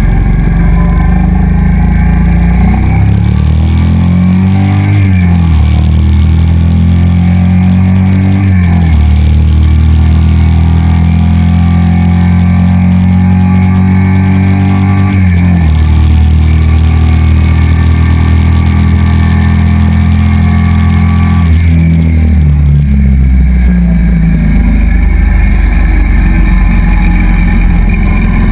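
Yamaha BT 1100 Bulldog's air-cooled V-twin, restricted to 34 PS, running through an aftermarket Leovince exhaust and accelerating hard. The engine pitch climbs in each gear and drops at each of several upshifts.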